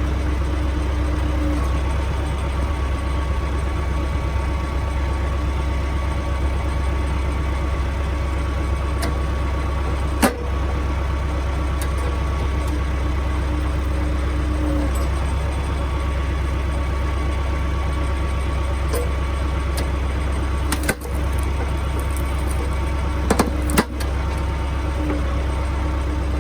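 Renault tractor's diesel engine running steadily, driving a hydraulic log splitter. A sharp crack sounds about ten seconds in, and a few more come in the last six seconds.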